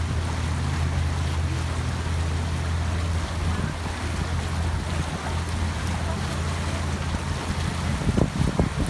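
A pontoon boat's motor running at a steady hum while the boat moves across the lake, with water and wind noise. Wind buffets the microphone in a few gusts near the end.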